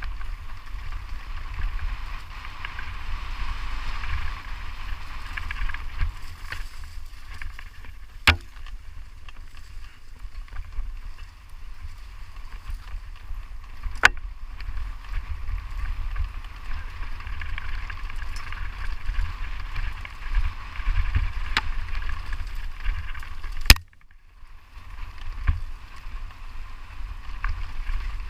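Wind buffeting the microphone with a steady low rumble and hiss, broken by a few sharp knocks or clicks. The rumble drops away briefly after the loudest knock, about three-quarters of the way through.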